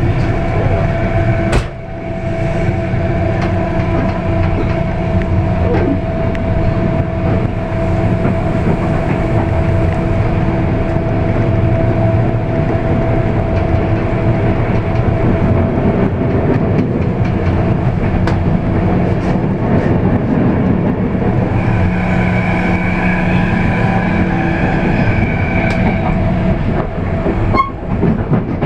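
Intercity passenger train running at speed, heard from inside a coach by the door: a steady rumble of wheels on the rails with humming tones and scattered sharp clicks. A higher whine joins in for a few seconds about three-quarters of the way through.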